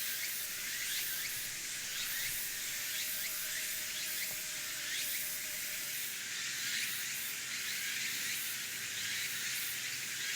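Meat sizzling steadily in hot fat in a Dutch oven, with small pops and crackles throughout.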